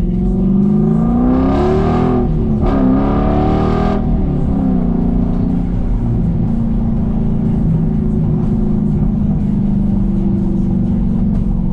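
Dodge Challenger's engine and exhaust accelerating hard. The revs climb for about two seconds, break briefly as at a gear change, climb again until about four seconds in, then settle to a steady cruising drone.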